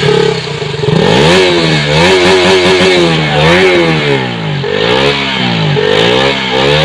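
KTM Duke single-cylinder four-stroke motorcycle engine being revved through its exhaust, the engine speed climbing and falling back about once a second in repeated throttle blips.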